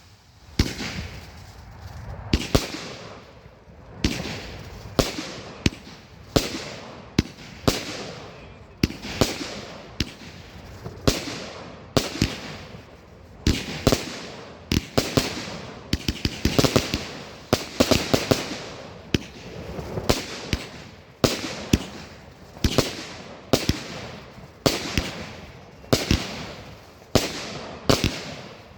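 Fireworks display: a rapid run of sharp bangs from bursting shells, about one or two a second, each trailing off briefly before the next.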